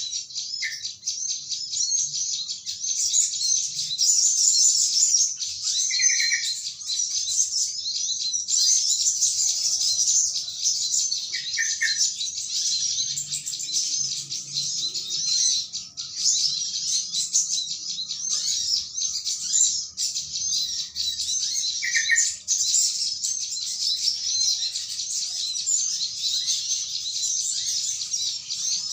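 Dense, unbroken chattering of a flock of small birds, high-pitched. A short, lower bubbly call from a yellow-vented bulbul breaks through about every five to six seconds. It is a bird-lure call recording made to draw wild birds in.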